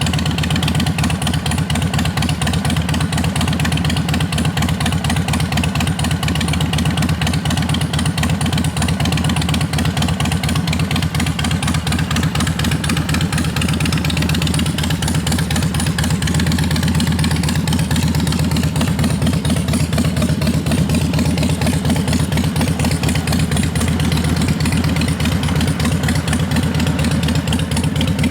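2016 Harley-Davidson Dyna Street Bob's air-cooled Twin Cam 103 V-twin idling steadily through Screamin' Eagle exhaust, a loud, even, low-pitched pulsing.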